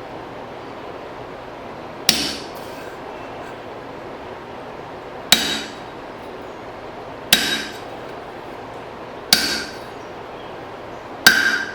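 Five single hammer blows driving a hole punch through hot file steel on the anvil, each a sharp metallic strike with a short ring, about two seconds apart. A steady hiss runs underneath.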